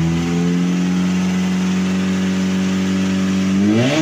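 Mitsubishi Lancer Evolution VIII's turbocharged four-cylinder engine running at a steady speed, then revved quickly near the end, its pitch rising sharply.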